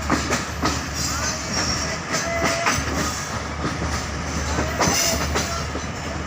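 Passenger train running on the rails, heard from aboard a coach: a steady rumble with repeated knocks of the wheels over rail joints and a few brief high metallic squeals.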